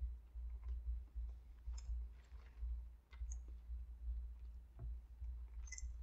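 A person chewing a mouthful of fried chicken sandwich, with a few faint sharp mouth clicks, over a low, uneven rumble.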